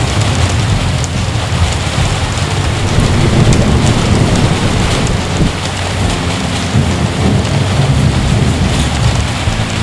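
Heavy rain falling steadily, with low rolling thunder rumbling underneath, loudest about three to four seconds in.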